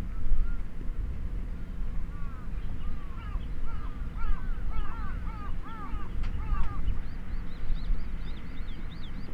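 Birds calling in quick series of short chirping notes, several a second, higher-pitched near the end, over a steady low rumble.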